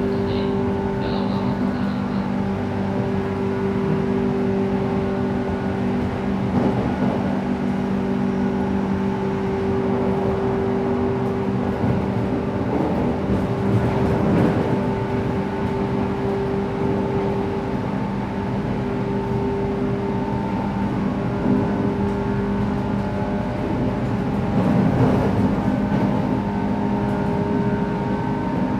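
Interior running sound of a JR West 117 series electric train at steady speed: the motors and gears give a constant hum over wheel-on-rail rumble. The track noise swells briefly a few times.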